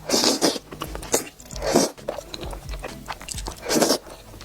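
Close-miked mukbang eating sounds of crawfish being bitten and chewed, with three loud bursts of eating noise: one just after the start, one a little before two seconds in and one near the end. Background music plays underneath.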